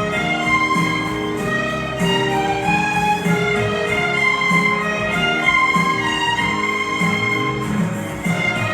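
Violin playing a melody of held notes over a steady accompaniment.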